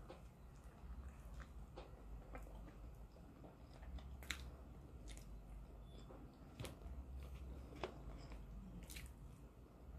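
A person biting and chewing a chicken sandwich with bacon and jalapeños, faint, with scattered crunches and several sharp mouth clicks.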